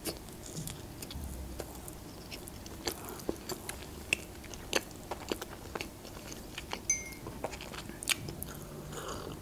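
A person chewing a mouthful of soft open sandwich with fish, picked up close by a table microphone: quiet wet mouth smacks and clicks, scattered irregularly.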